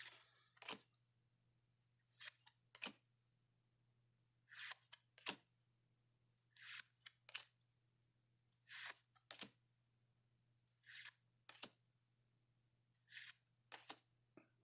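Pokemon trading cards being handled one at a time, each card slid across the stack with a pair of short papery swishes, about every two seconds, over a faint steady hum.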